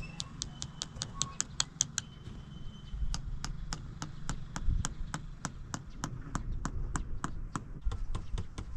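Rapid, fairly even clicking, about six sharp clicks a second, over low rumbling wind on the microphone.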